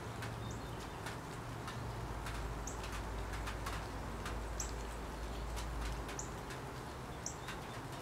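A bird chirping: five short high chirps spaced a second or two apart. Under them run scattered faint clicks and a steady low hum.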